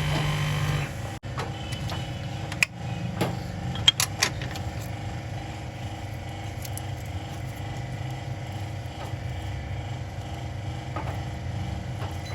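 An electric motor humming steadily cuts off about a second in. A few sharp metallic clicks and knocks follow, the loudest about four seconds in, over a low steady background hum.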